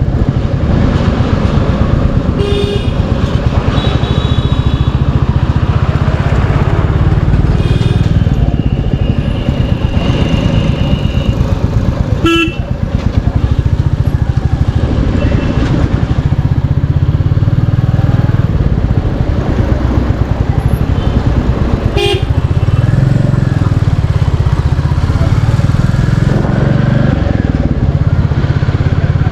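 Royal Enfield Classic 350's single-cylinder engine running steadily on the road, with vehicle horns sounding a few times in the first third and two sharp knocks, about 12 and 22 seconds in.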